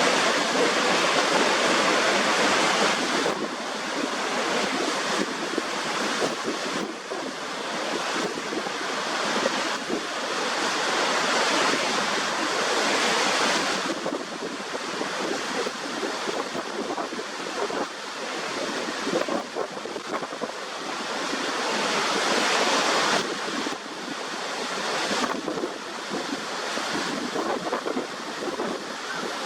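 Waterfall rushing water: a steady, loud hiss of falling water with little deep rumble, changing abruptly in tone several times.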